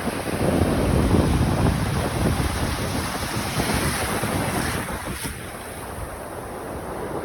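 Wind buffeting the microphone: a loud rushing noise with an uneven low rumble, strongest in the first couple of seconds and easing a little after the middle.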